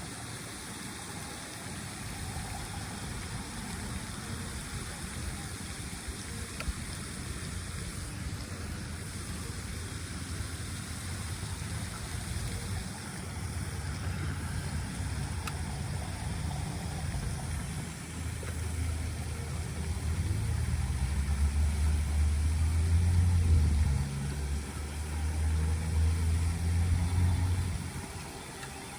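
Car engine and road rumble heard from inside the car, steady at first, growing louder about two-thirds of the way through and dropping off near the end.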